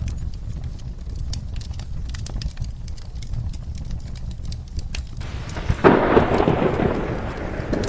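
Wood fire crackling in a fireplace over a low steady rumble. About five seconds in, a loud clap of thunder breaks in and rolls on with heavy rain.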